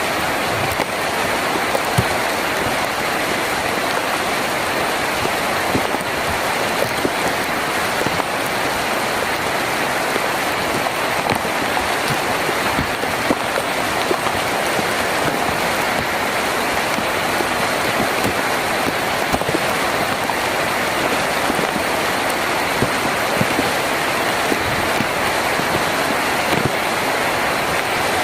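Heavy rain drumming steadily on a tin roof, a dense even hiss with scattered sharper drop taps.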